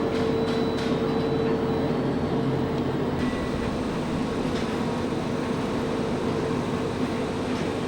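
Electric train running, heard from inside the car: a steady rumble and hiss with a constant whine from the motors.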